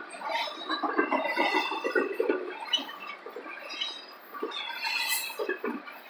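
Double-stack intermodal well cars of a freight train rolling past: an uneven clatter of wheels and rattling car bodies over the rail, with many short squeaks.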